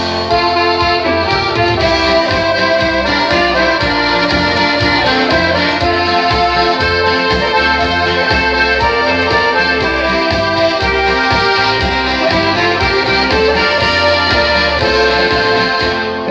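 Band music: an instrumental break between sung verses, with a melody over a steady beat in the bass.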